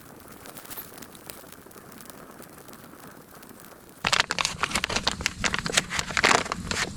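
Dry tinder and kindling crackling and crinkling while a campfire is being started. It is faint at first, then about four seconds in a sudden loud stretch of dense crackling begins.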